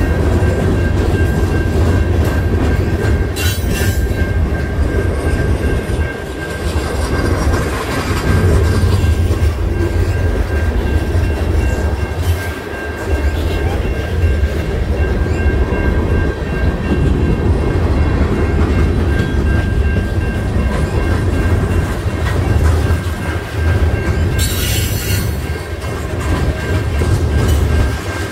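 CN freight train rolling past: a steady heavy rumble of railcar wheels on the rails, with a thin steady wheel squeal above it. Two brief hissing bursts, a few seconds in and near the end.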